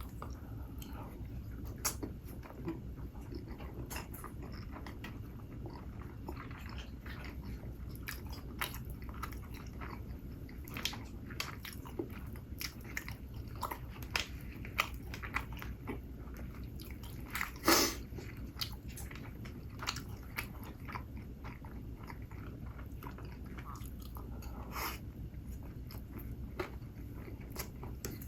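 Close-miked mukbang eating sounds: a person biting and chewing food, with scattered crisp crunches and one louder crunch about 18 seconds in, over a low steady room hum.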